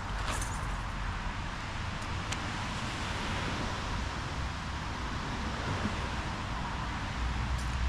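Steady rushing of a swollen, fast-running creek, with a low rumble underneath and a faint sharp click about two seconds in.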